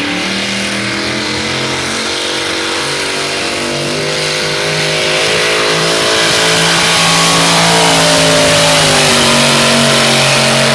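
Modified two-wheel-drive pulling truck, a 1936 Ford, running its engine loud and flat out under load as it drags the sled down the track. The engine note holds fairly steady, grows louder about halfway through and sags a little in pitch near the end as the truck slows.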